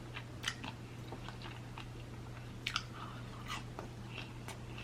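A person chewing food close to the microphone, with scattered wet mouth clicks and smacks, over a faint steady low hum.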